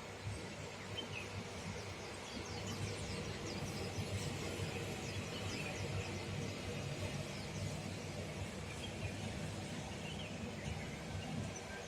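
Small birds chirping, with quick series of high twittering notes, over a steady low city hum.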